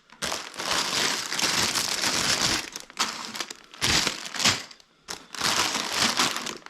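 Plastic LEGO parts bags crinkling as they are handled, in several bursts with short pauses between them.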